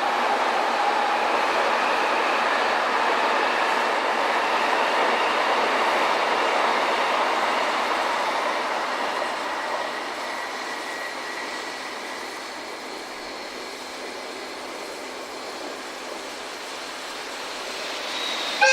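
Steam-hauled passenger train of the JNR Class C57 locomotive running past on the rails, a steady rolling rumble of wheels and coaches that fades away over the second half.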